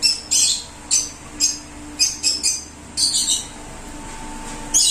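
A small bird chirping: short, high, downward chirps, about two a second in irregular runs, over a faint steady hum.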